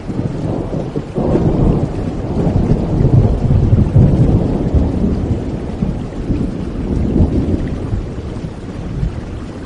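A roll of thunder over steady rain: a low rumble rises sharply about a second in, swells for a few seconds, then slowly fades.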